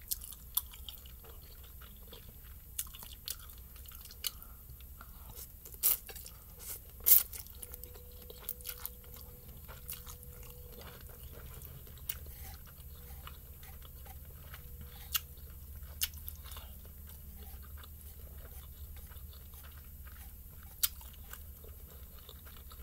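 Close-miked chewing and wet mouth sounds of someone eating spicy instant noodles, with scattered sharp clicks and smacks, the loudest about six and seven seconds in, over a low steady hum.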